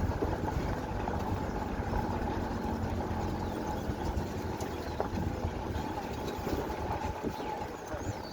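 A steady low engine rumble, easing slightly near the end.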